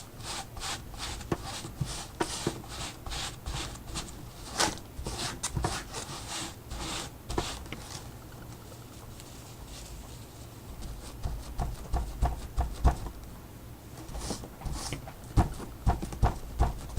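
Quick tapping and dabbing strokes on the art surface, about three a second, as paint is worked in over a stencil. It eases off about eight seconds in, then duller knocks on the work table follow.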